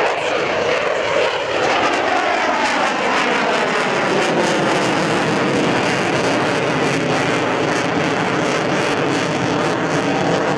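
Twin jet engines of a Navy F/A-18 Super Hornet giving a loud, continuous roar during a display pass, the tone shifting slowly as the jet moves past.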